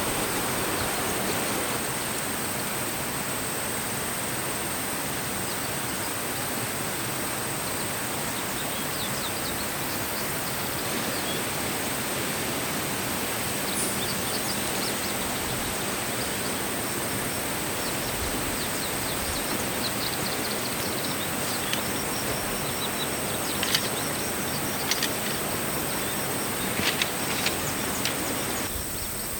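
Steady rushing of a forest stream, with faint scattered bird chirps over it and a few sharp clicks near the end.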